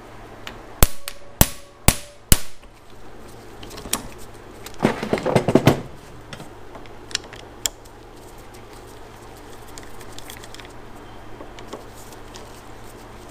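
Four sharp hammer blows on metal in quick succession, each ringing briefly, struck to free stuck screws on a motorcycle starter. About five seconds in comes a short rattling clatter of metal parts, then a few light clicks.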